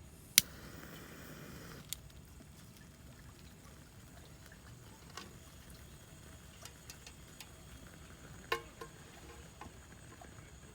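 Cookware being handled: a sharp click, then a short pouring-like hiss that ends in a second click, then scattered light ticks and a single knock with a brief ring more than halfway through.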